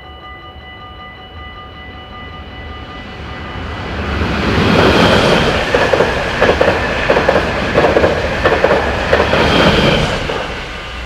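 A train passes over a Dutch level crossing, swelling about four seconds in and fading near the end, with a regular clickety-clack of its wheels over the rail joints. The crossing's warning bell rings steadily under it, heard plainly before and after the train.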